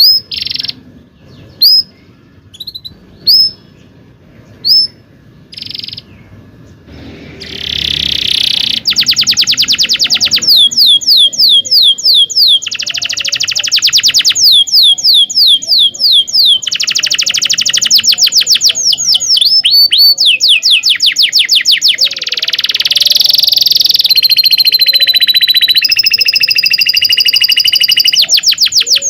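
Domestic canary singing: a few separate high chirps at first, then from about seven seconds in long rapid rolling trills of quickly repeated descending notes, ending in held whistled tones.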